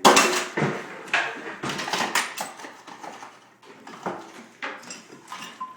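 Hammer blows during demolition: a string of sharp knocks and clatter, the loudest right at the start and another about a second in, then lighter knocks and rattling debris.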